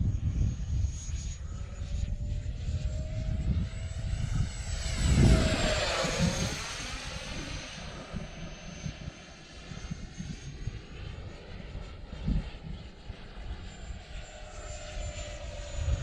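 E-flite F-16 Thunderbirds 70 mm electric ducted-fan jet flying past with a high, steady whine. It is loudest about five seconds in as it passes, after which its pitch drops slightly and it fades. Low wind rumble on the microphone runs underneath.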